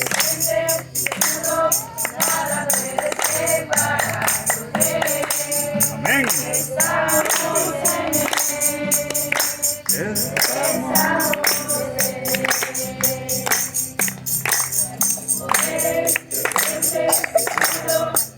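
A group of voices singing a gospel worship chorus, with a tambourine jingling a steady fast beat throughout.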